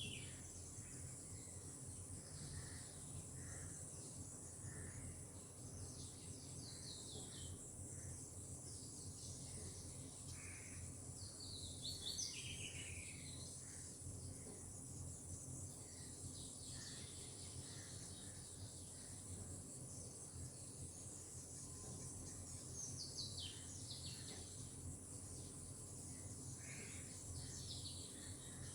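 Tropical outdoor ambience: birds giving short, quickly descending whistled calls every few seconds over a steady high-pitched insect trill, with a low background hiss.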